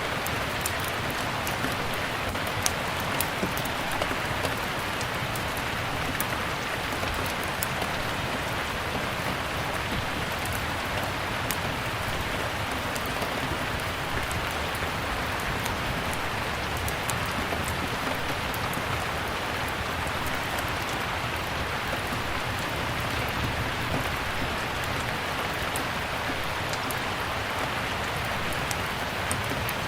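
Steady rain falling, with scattered sharp pops and crackles of a wood fire in a fireplace over it.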